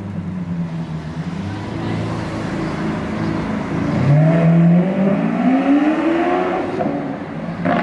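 Lamborghini Aventador's V12 engine running at a steady idle, then revved about four seconds in, the pitch climbing for about two seconds before dropping back. A sharp crack sounds near the end.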